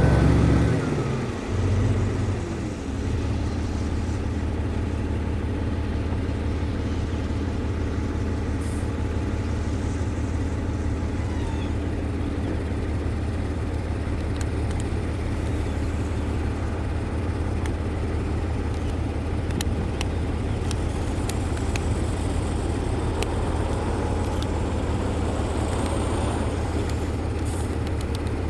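Heavy construction machine's diesel engine running with a steady low drone, after a louder surge in the first two or three seconds that dies down.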